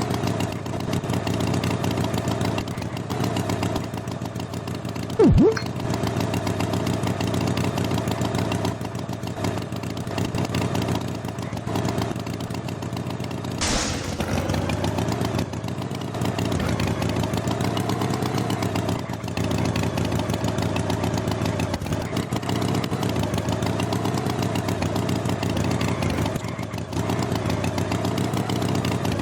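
An engine running steadily with a buzzing drone, with a brief sliding tone about five seconds in and a sharp knock just under halfway through.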